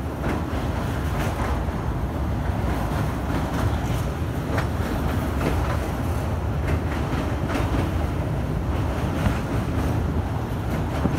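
Passenger train running at speed, heard from inside the carriage: a steady rumble of wheels on rail with scattered sharp clicks.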